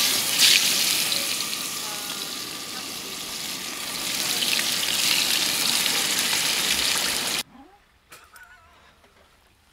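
Steaks sizzling in a hot pan, a loud, steady hiss that cuts off suddenly about seven seconds in.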